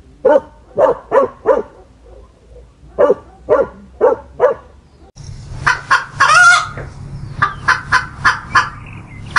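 Poultry calling: two runs of four short calls about half a second apart. Then, from about five seconds in, a hen clucking in a quick series, with one longer drawn-out call about six seconds in.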